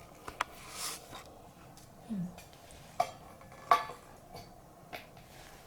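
A kitten poking at snow in a dish: a few light clicks and taps, with a short rustling swell about a second in.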